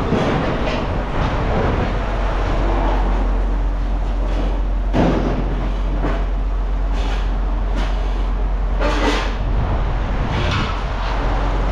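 A heavy vehicle engine running steadily with a low rumble, broken by several sharp clanks of scrap metal being handled. The loudest clank comes about five seconds in, with more near the end.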